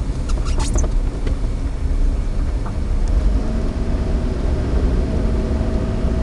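Inside a moving Suzuki Alto 4WD kei car: steady low rumble of engine and road noise, with a steady engine tone coming in a little over three seconds in.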